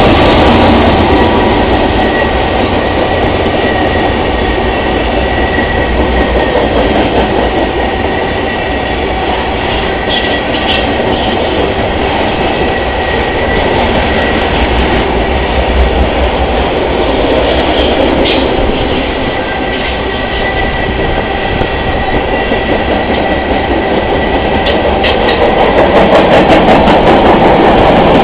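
Freight train cars rolling past on the rails, a loud steady rumble with a thin high tone over it and a few brief high squeals along the way.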